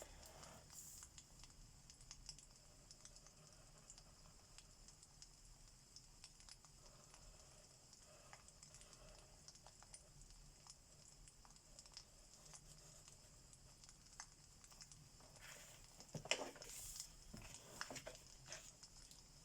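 Faint fireplace crackle: scattered small pops and ticks over a soft steady hiss. A short cluster of louder clicks and rustles comes near the end.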